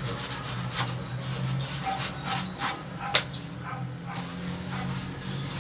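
Brushing and rubbing on the window air conditioner as dust is cleaned off: irregular scrubbing strokes with a few sharp clicks, the sharpest a little after three seconds in, over a low steady hum.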